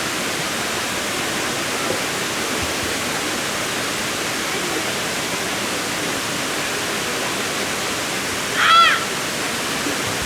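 Waterfall rushing steadily. Near the end, one short call rises and falls in pitch, briefly louder than the water.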